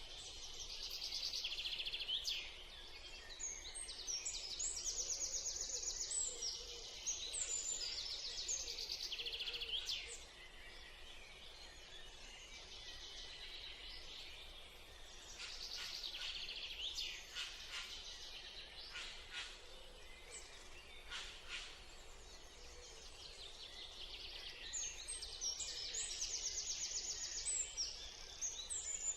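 Small birds singing: bouts of quick, high trilling phrases, with a lull through the middle and a last bout near the end.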